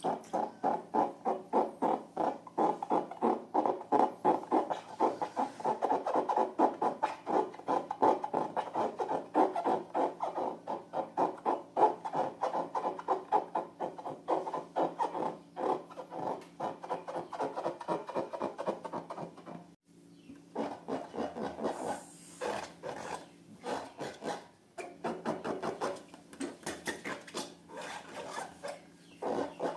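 Rapid rubbing and squelching strokes, several a second, with a short pause about two-thirds of the way through: hands working slime.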